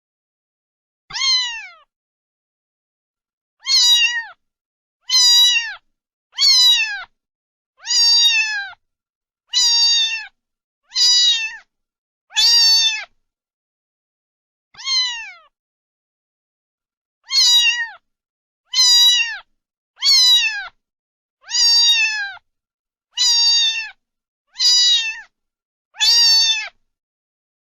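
A domestic cat meowing again and again: about sixteen short, alike meows, each dropping in pitch at the end, with dead silence between them.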